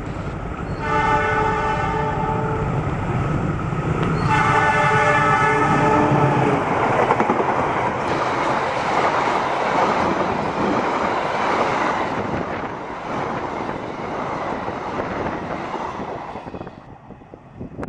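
Diesel locomotive sounding two long multi-tone horn blasts, each about two seconds, as a warning signal (semboyan 35). Then the locomotive and its passenger coaches run past close by with a loud, steady rush of rolling noise that falls away near the end.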